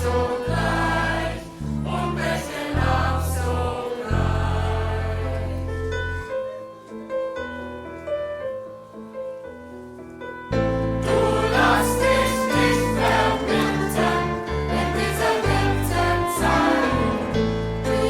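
A school band of violins, viola, guitar, bass, percussion and keyboards playing a song live, with singing. About six seconds in it drops to a quieter, sparser passage, and the full band comes back in about four seconds later.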